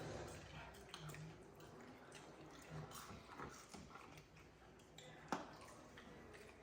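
Faint eating sounds: scattered soft clicks and ticks of chewing fried chicken and fries, with one sharper click about five seconds in.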